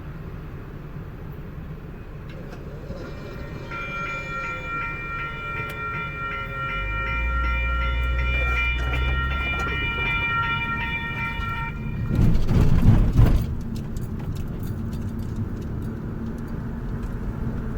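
Train passing a level crossing: a rumble builds, and a high, rhythmically pulsing warning tone sounds for about eight seconds. Then a loud rushing surge comes as the train goes by, about twelve seconds in, and a steady rumble follows.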